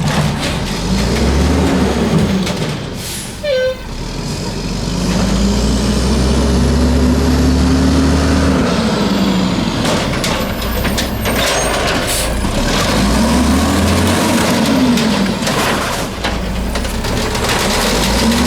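Mack LE garbage truck's diesel engine revving up and settling back four times as it drives the hydraulics of the Amrep automated side-loader arm through its cart-dumping cycles. Several sharp knocks come about ten seconds in, and air brakes hiss.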